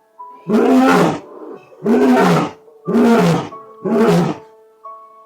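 Lion roaring: four loud roars about a second apart.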